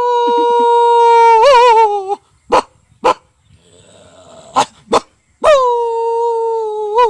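A man vocally imitating a big dog: two long held cries of about two seconds each, at the start and after about five seconds, each ending in a wavering warble, with short sharp barks between them.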